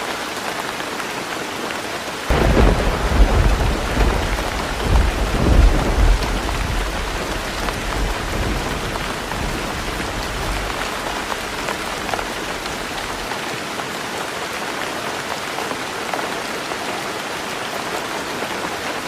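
Heavy rain drumming steadily on a tin roof. About two seconds in, a loud thunderclap breaks and rolls on as a deep rumble that fades away over the next several seconds.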